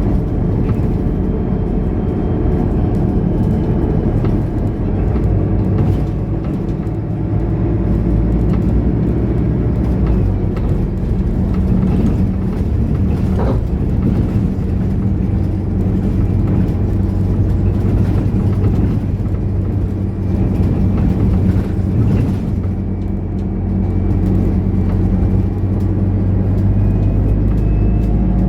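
Mercedes-Benz O530 Citaro Facelift Ü city bus under way, its diesel engine running steadily, with the engine note shifting as the bus changes speed and rising slightly near the end. A single short knock about halfway through.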